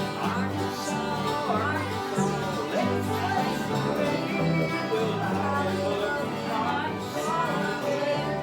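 Bluegrass music: plucked guitar and banjo over a steady, alternating bass line.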